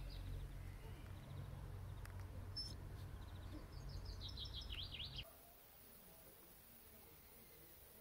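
Small birds chirping outdoors, a few scattered calls and then a quick run of chirps about four to five seconds in, over a low steady background rumble. Both stop suddenly about five seconds in, leaving only faint quiet background.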